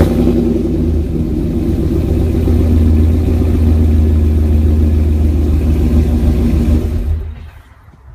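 Car engine running at a loud, steady idle just after starting, a deep rumble that dies away about seven seconds in.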